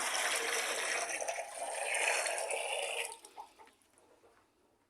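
Water pouring as the birds' drinking water is filled, stopping abruptly about three seconds in.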